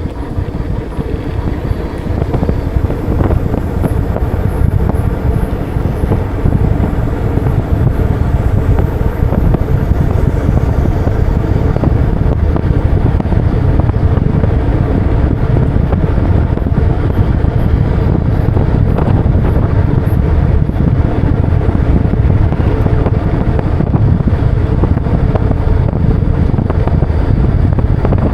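Steady wind rumble on the microphone of a moving bike, over road and traffic noise.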